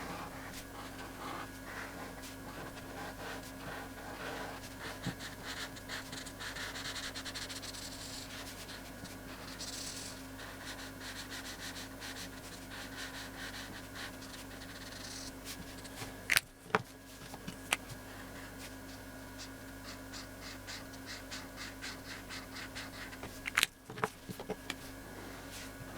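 Rapid scratchy strokes of colouring on paper over a steady hum, with a few sharp clicks about two-thirds of the way through and again near the end.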